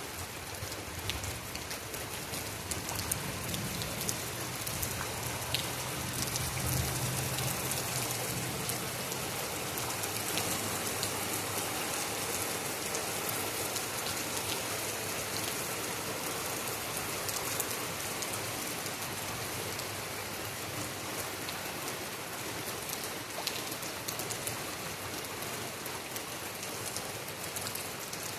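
Heavy rain falling steadily, with individual drops ticking close by and a low rumble during roughly the first third.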